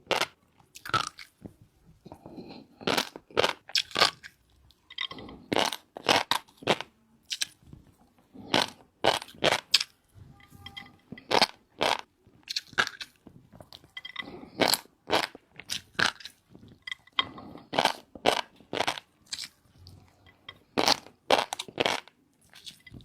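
A person chewing shrimp with fish roe, with frequent sharp crunching and crackling clicks in uneven runs.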